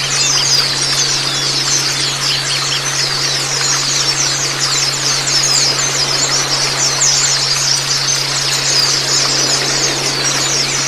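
Many white-eyes (Zosterops) twittering in a dense, rapid, high chirping chorus without a break, over a wash of water and a steady low hum.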